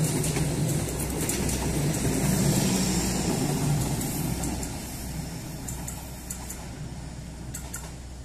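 Passenger train rolling past close by: a steady rumble and clatter of coaches on the rails, with scattered clicks of the wheels. The last car, a power car, passes, and the sound fades about five seconds in as the train moves away.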